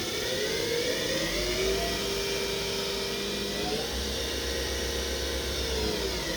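Hurco VM10i vertical machining center's spindle running up and down in speed: a whine that rises, holds steady, steps up in pitch about four seconds in, then falls as the spindle slows near the end.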